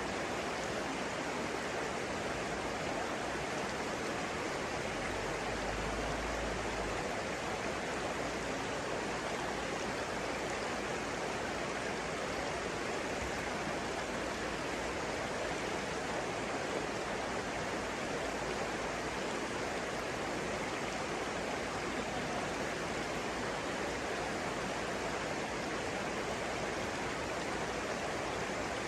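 Flowing water rushing steadily, like a stream or small waterfall.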